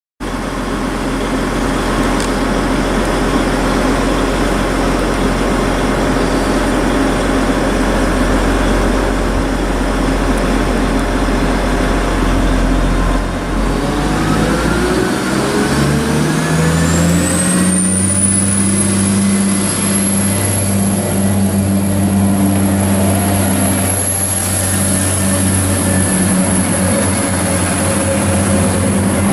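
Diesel train engine running loudly with a deep steady drone; about fourteen seconds in its pitch rises smoothly for several seconds as it accelerates, then holds a steady higher note with a thin high whine above it.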